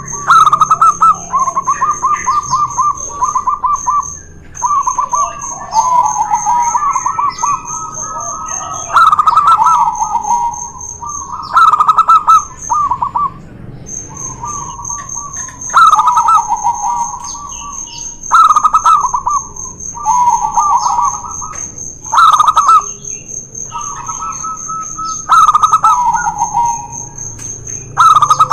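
Zebra doves (perkutut) cooing, their stuttering, rolling coo phrases repeated every two to three seconds and sometimes overlapping.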